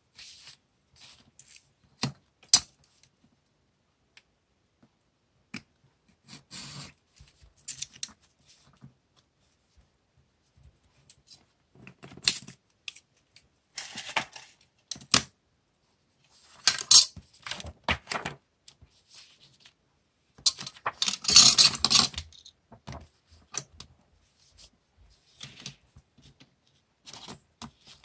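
Stationery being handled on a desk while decorating a diary: scattered small clicks and taps of items being picked up and set down, with short rustles of paper and tape. The longest, loudest rustle comes a little past two-thirds of the way through.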